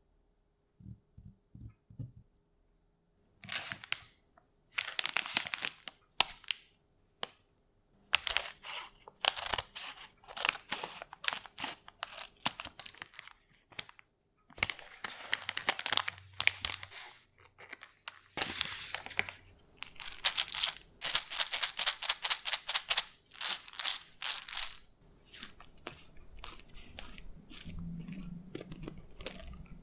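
A few soft taps, then from a few seconds in repeated bursts of crisp crinkling and rustling, close up, as of something dry being handled.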